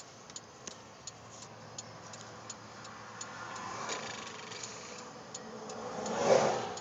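Steady clicking of a vehicle's hazard-light flasher relay, about three clicks a second, as the broken-down truck sits stopped. Freeway traffic passes by, one vehicle rushing past loudest near the end.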